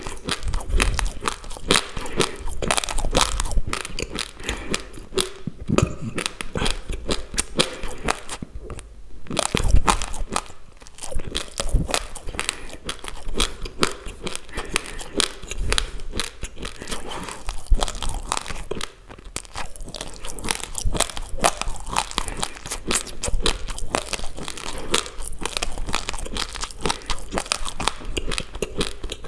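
Raw basmati rice grains being chewed close to the microphone: dense, rapid crunching that runs on with only brief lulls, about nine seconds in and again around nineteen seconds.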